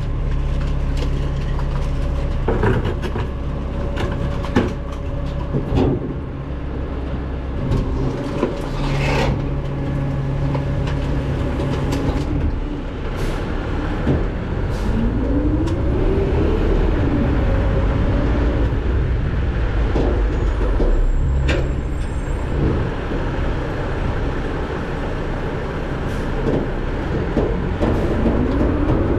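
McNeilus ZR garbage truck at work: the diesel engine runs steadily, its pitch rising and falling a few times as the hydraulics load, with several sharp clanks and knocks of metal along the way.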